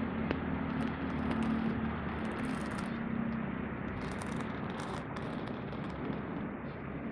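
Steady outdoor background noise with a low hum, broken by several brief high hissing bursts.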